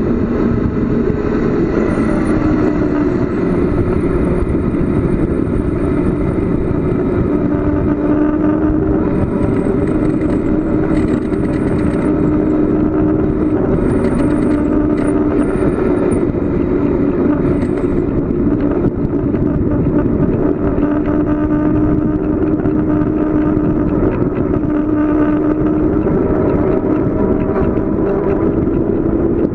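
Steady wind and road noise from a bicycle coasting fast downhill, loud throughout, with a steady drone that drifts a little in pitch.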